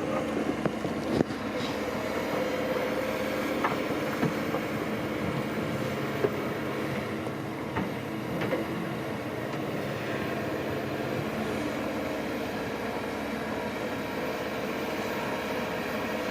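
Heavy diesel earthmoving machinery running steadily, with several sharp metallic knocks and clanks.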